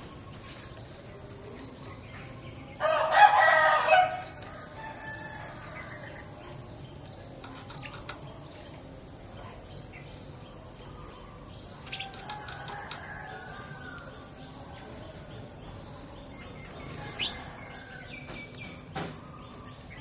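One loud bird call about a second long, some three seconds in, over faint sparrow chirps and wing flutters at a feeder and a steady high hiss.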